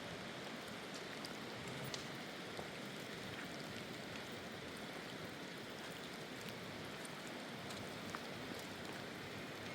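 Steady rain falling, a constant hiss with scattered sharp ticks of individual drops.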